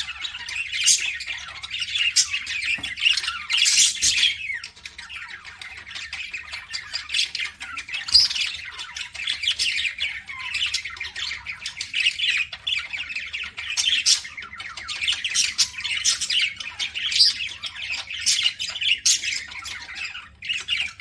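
Budgerigars chattering and squawking continuously, a dense stream of short, sharp, high calls with no pauses.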